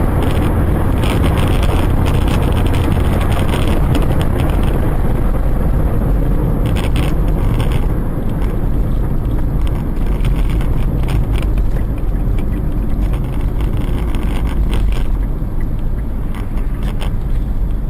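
Steady road and engine noise of a moving car, picked up by a dashcam, with a few short knocks or rattles scattered through it.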